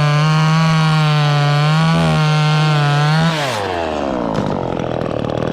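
Gas chainsaw running at full throttle, cutting wood with a steady high engine note. About three seconds in the throttle is released and the engine winds down to a rougher idle.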